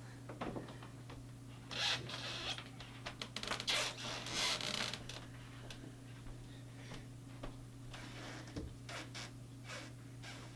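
Irregular rustling and scratching handling noises, loudest about two to five seconds in and then fainter and scattered, over a steady low electrical hum.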